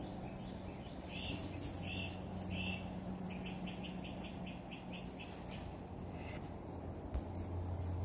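A songbird singing: three clear whistled notes about a second apart, then a quick run of short repeated notes, about six a second, for a couple of seconds. Two brief high chirps come about halfway and near the end, over a low steady hum.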